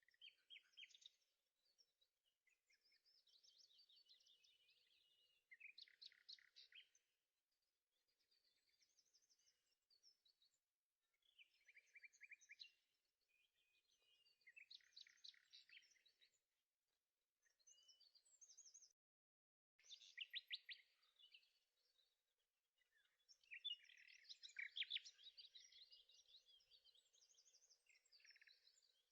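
Faint birdsong: small birds chirping and trilling in repeated high bursts, with a few abrupt short breaks.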